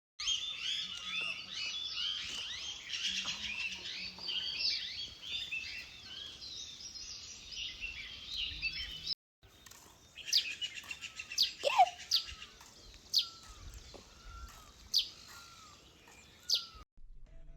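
Songbirds chirping and singing together in a dense chorus. After a brief break the birds return with sharp, falling calls repeated roughly once a second over softer chirps, and the sound cuts off shortly before the end.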